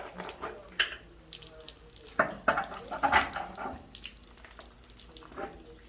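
Water trickling and splashing from the water heater's plumbing, with irregular clinks and scrapes of slip-joint pliers on the fittings.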